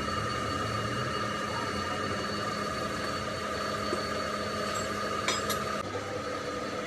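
A machine running steadily with a constant whine, and two short sharp metallic clinks about five seconds in.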